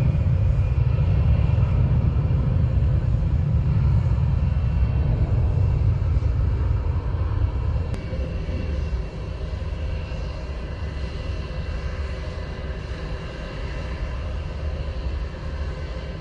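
Jet airliner's engines passing close by, a deep rumble with a faint high whine, loudest at first and fading after about nine seconds as the aircraft moves away.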